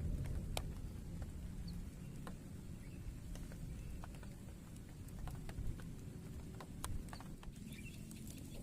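Scattered raindrops ticking irregularly over a low rumble of distant thunder that eases off about two seconds in.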